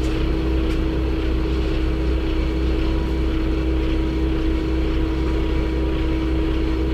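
Steady engine and road drone of a moving truck, an even rumble with a constant hum-like tone throughout.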